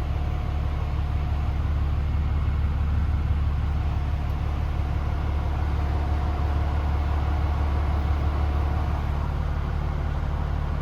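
DAF CF440 truck's Paccar 440 bhp Euro 6 diesel engine idling steadily, with a deep, even rumble.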